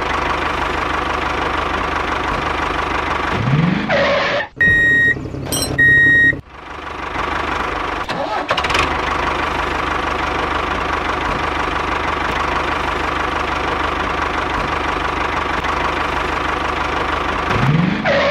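Steady engine-like running sound of a mini tractor. About five seconds in it breaks off for two short high electronic beeps, then resumes.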